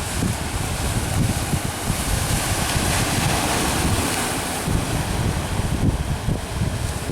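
Strong wind buffeting the microphone over the wash of sea waves, the hiss of surf swelling about halfway through.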